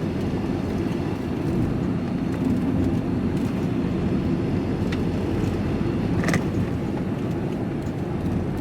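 Van driving along a country road: steady engine and tyre rumble from inside the cab, with a brief click about six seconds in.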